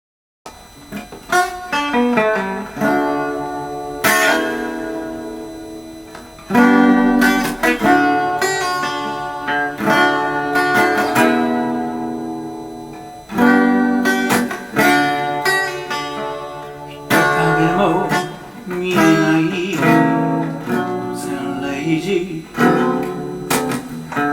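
Instrumental song intro on guitar: plucked and strummed chords, each ringing out and fading before the next.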